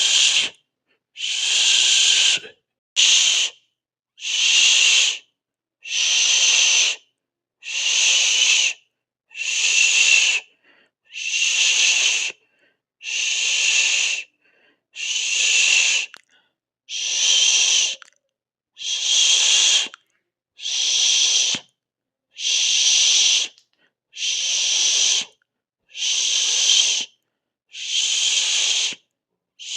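A person hissing "shhh" over and over, each hiss lasting about a second with a short silent break before the next, about one every second and a half to two seconds.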